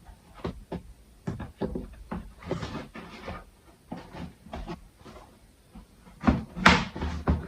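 A bumper fitting being handled and pushed until it clips into place: a series of plastic clicks and knocks with short scrapes, loudest in a cluster near the end.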